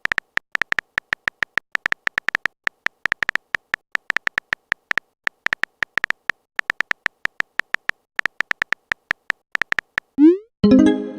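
A typing sound effect: a rapid, irregular run of short electronic blips, several a second, all at one pitch. Near the end comes a quick rising swoop, then a brief pitched tone like a message alert.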